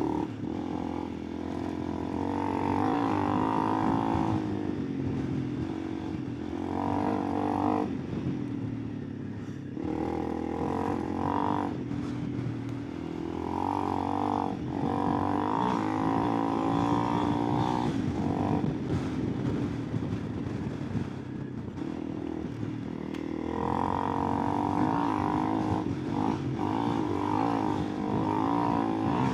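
Honda CRF300 Rally single-cylinder four-stroke engine running while riding, the throttle repeatedly opened and eased off so the engine note rises and falls.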